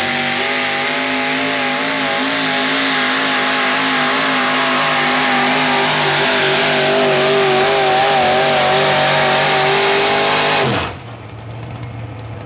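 A truck engine held at high revs under heavy load while pulling, its pitch wavering up and down. Near the end the revs fall away sharply and the sound drops off.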